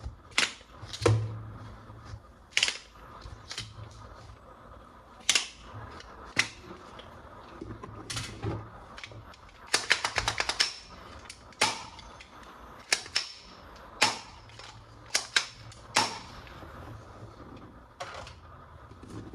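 Plastic toy guns and parts being handled: irregular sharp clicks and snaps, with a quick rattle of about a dozen clicks about ten seconds in.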